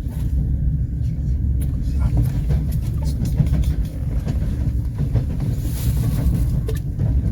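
Passenger train carriage in motion: a steady low rumble of wheels and running gear, with scattered light knocks and rattles.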